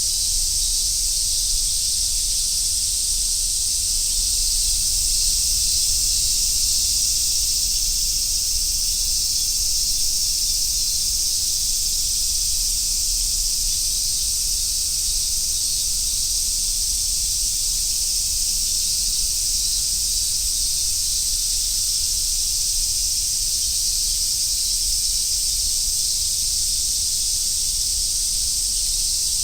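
Chorus of summer cicadas, large brown cicadas among them, in a steady, dense, high sizzle with no breaks. A faint low rumble runs underneath.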